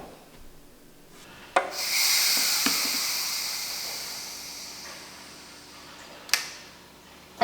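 Electric pressure cooker letting off steam through its release valve at the end of its cooking cycle: a click, then a loud hiss that slowly dies away over about four seconds, followed by another click near the end.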